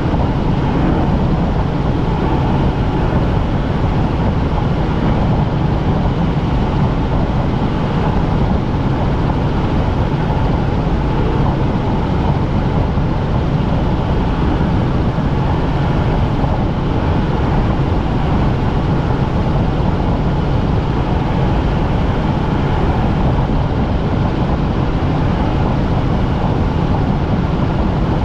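Steady drone of a helicopter in flight as heard inside the cabin: engine and rotor noise, even and unbroken, heaviest in the low range.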